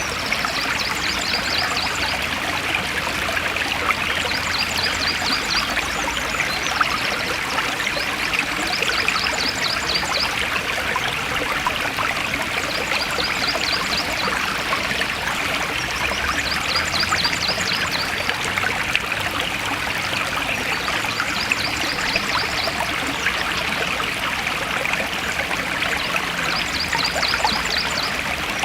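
Forest stream flowing steadily, a continuous rush and trickle of water. Over it, a high, rapid trill of clicks repeats every two to three seconds.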